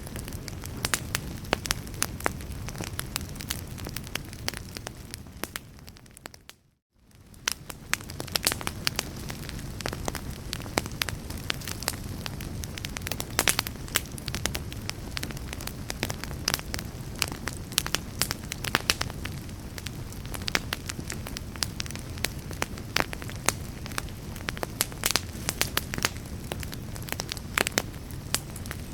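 Wood fire in a fireplace crackling, with frequent sharp pops over a steady low rumble. About six seconds in the sound fades almost to silence, then fades back up a second later.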